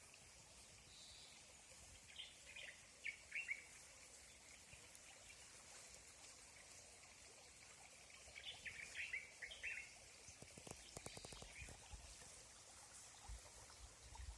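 Bird calls: two bursts of quick, downward-sweeping chirps, about 2 s in and again about 8.5 s in, over a faint steady outdoor hiss. A short run of soft clicks comes about 11 s in.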